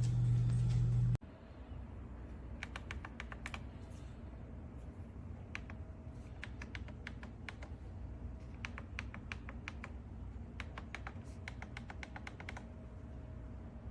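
A loud steady hum, the Keurig K-Supreme Plus brewer's pump running through a brew, cuts off suddenly about a second in. Quick runs of light clicks follow, several times over.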